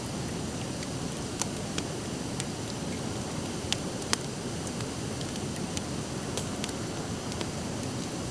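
Driftwood campfire crackling: irregular sharp pops and snaps, the loudest about a second and a half in and two close together around four seconds in, over a steady rushing hiss.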